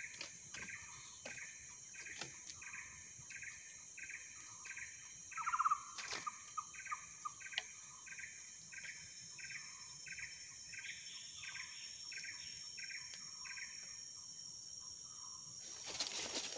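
A bird repeats a short two-part call about three times a second over a steady high insect drone, and stops about fourteen seconds in. A louder brief call cuts in about five seconds in, and a burst of rustling noise comes near the end.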